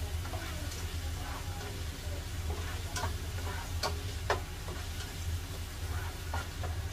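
Ginger frying in hot cooking oil in a pot, sizzling while it is stirred, with several sharp taps of the utensil against the pot, the loudest about four seconds in. A steady low hum runs underneath.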